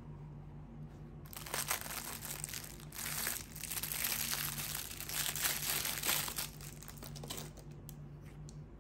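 Crinkling, crackling rustle, as of something being crumpled or handled, lasting about six seconds and fading out near the end.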